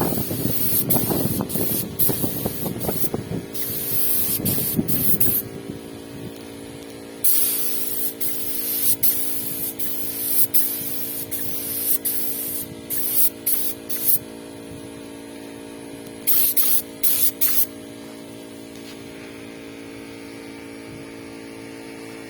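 Paint spray gun hissing in repeated trigger bursts, short ones and one long pass, while a fine finish coat goes onto a boat. A steady hum runs underneath.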